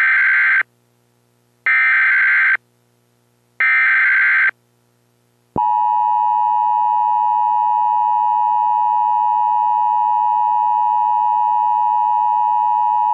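Emergency Alert System tones: three short data bursts of the digital SAME header, each about a second long and about two seconds apart, then the steady two-tone attention signal held for about eight seconds. It heralds a tornado warning.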